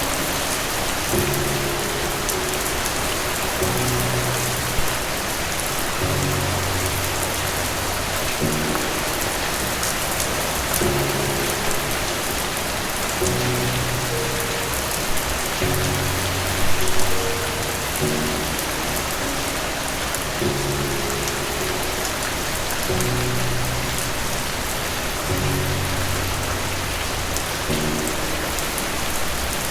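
Steady rain falling, with soft slow music underneath: low held notes that change about every two seconds.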